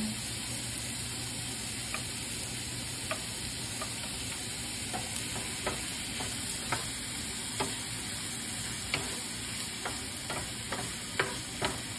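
Diced ham and onion sizzling in a nonstick frying pan, stirred with a wooden spatula that clicks and scrapes against the pan now and then, more often in the second half.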